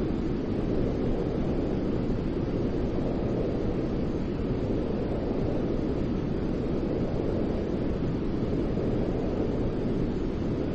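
Steady, unchanging noise for baby sleep, deep and rumbling rather than hissy, with most of its weight low down and little at the top.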